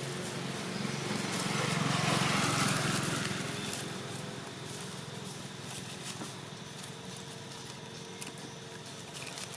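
An engine grows louder about two seconds in, then fades, over a steady noisy outdoor background.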